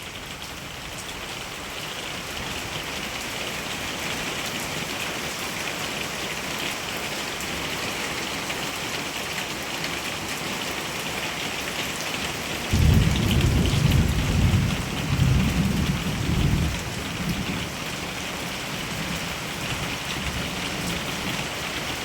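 Heavy rain pouring steadily, a dense even hiss that grows a little heavier over the first few seconds. About thirteen seconds in, a loud low rumble of thunder rolls for around four seconds before the rain alone goes on.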